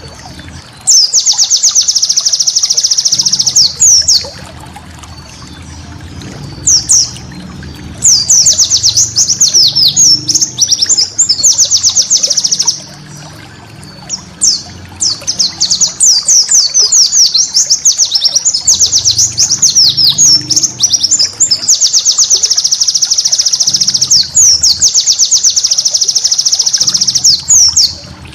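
White-eye (pleci) singing: long, very fast chattering trills of high notes, in bouts of one to five seconds with short pauses between them.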